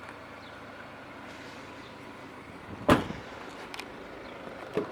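A BMW 5 Series car door clunks loudly once about three seconds in, with a lighter knock near the end, over a steady background hiss.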